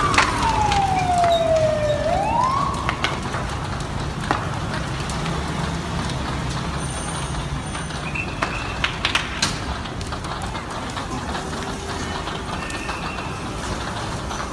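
An emergency vehicle siren wailing, sweeping slowly down in pitch and then back up before it cuts off about three seconds in. After that comes a steady low rumble of street traffic with a few scattered clicks.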